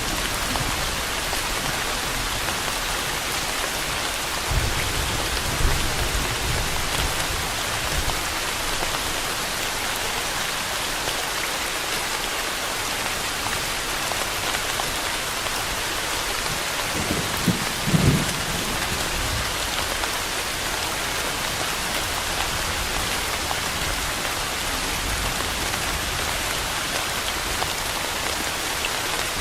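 Steady rain falling on a surface, with low rumbles of thunder twice, about five seconds in and again about eighteen seconds in.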